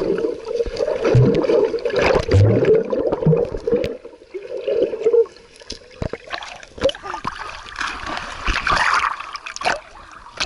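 Sea water splashing and sloshing close to the microphone, with irregular small knocks and splashes, busiest in the first half.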